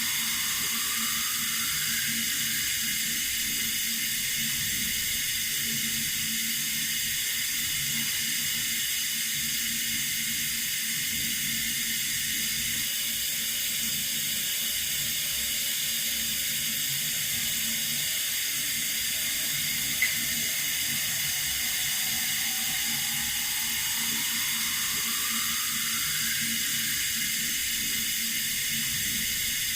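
Water running steadily from a tap, an even hiss with no change in flow. A single faint click about two-thirds of the way through.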